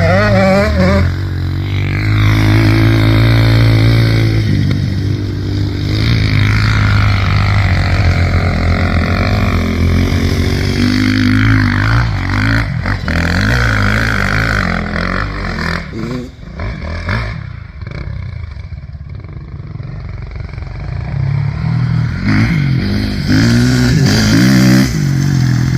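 Dirt bike engines revving through a sand hill climb, pitch rising and falling with the throttle. They drop quieter for several seconds past the middle, then come back loud near the end.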